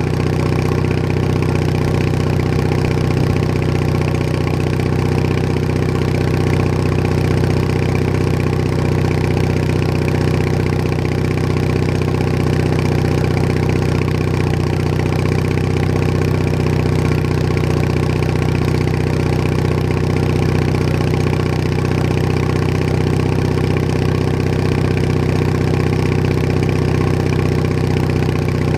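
Bolens HT20 garden tractor engine running steadily at an even speed, with no change in pitch.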